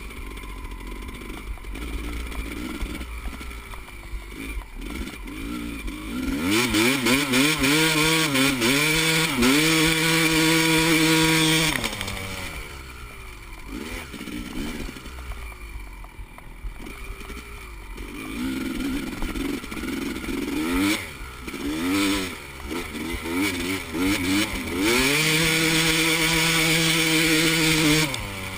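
Four-stroke dirt bike engine revving up through the gears and holding at high revs for several seconds, then dropping away; a second run about twenty seconds in does the same and cuts off near the end. A lower, quieter engine note runs between the two.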